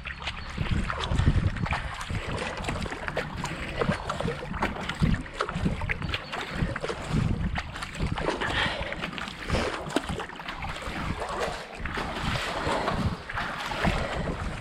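Kayak paddle blades dipping and pulling through the water in repeated splashes, with the hull moving through calm canal water. Wind rumbles on the microphone throughout.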